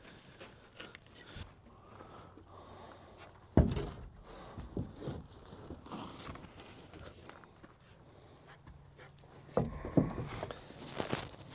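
Scattered knocks and thumps of work on a shed wall frame, with one sharp loud knock about three and a half seconds in and a cluster of knocks near the end.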